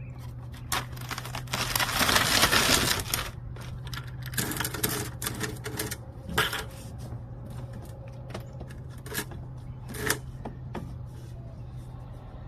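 Hand tools working on a stuck part during an oil change: irregular metallic clicks and knocks, with a longer rasping burst about two seconds in, over a steady low hum.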